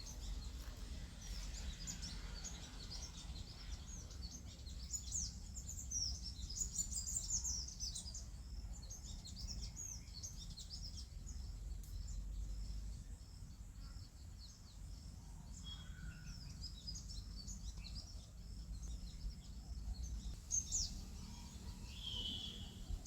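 Many small birds chirping and twittering, densest about five to eight seconds in and again near the end, over a steady low rumble.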